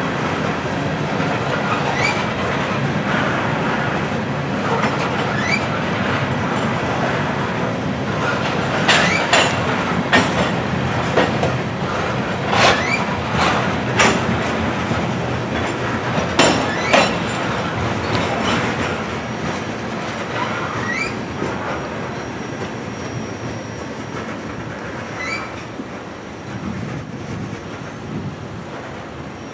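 Freight train of covered hopper cars rolling past, wheels clacking over the rail joints with sharp clanks and short wheel squeals. The sound fades over the last several seconds as the end of the train moves away.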